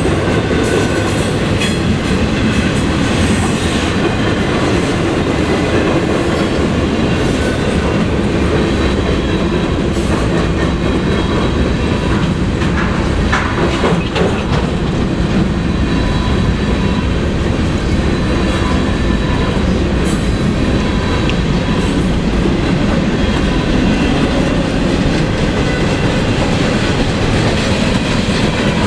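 Freight train cars rolling steadily past, wheels clacking over rail joints, with a faint high wheel squeal at times.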